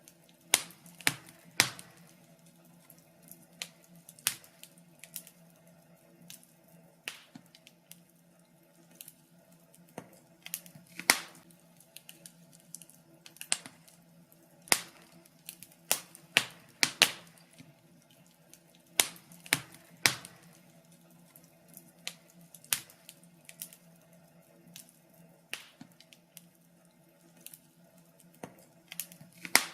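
Wood fire in a fireplace crackling, with irregular sharp pops and snaps of varying loudness over a faint steady low hum.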